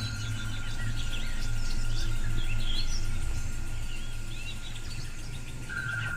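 Many small birds chirping and twittering in quick short calls, over a steady high-pitched tone and a low hum.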